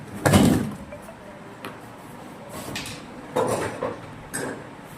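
Knocks and clatter of parts and tools being handled while a top-loading washing machine is taken apart: one loud clatter just after the start, then a few lighter knocks.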